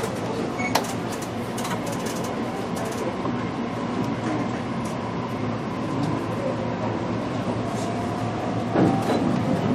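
Interior running noise of a JR Kyushu BEC819 battery-electric train car: steady rolling rumble, with a faint motor whine that rises slightly in pitch over the second half. The train is running in battery mode. A few light clicks and a knock come near the end.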